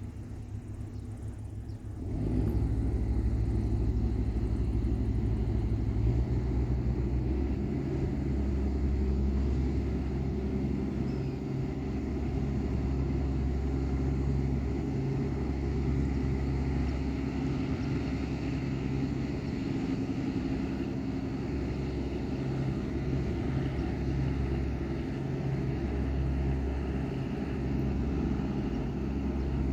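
Engine of a construction work boat running with a steady low drone, which gets louder about two seconds in and then holds.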